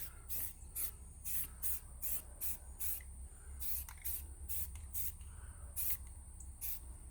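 Aerosol can of self-etching primer spraying a light tack coat in many short hissing bursts, about two a second.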